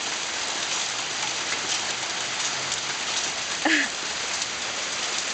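Marble-sized hail pelting down in a dense, steady patter of small ticks. About three and a half seconds in comes one brief, louder pitched sound that bends in pitch.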